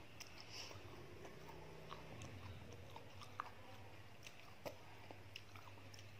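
Faint close-up chewing of a boiled fertilized egg, soft and wet, with scattered small mouth clicks over a low steady hum.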